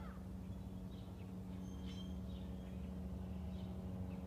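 Scattered faint bird chirps over a steady low hum.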